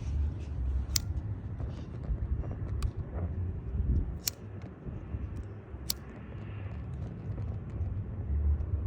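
Low outdoor rumble, like wind on a phone microphone, with four sharp, brief pops spread a second or two apart.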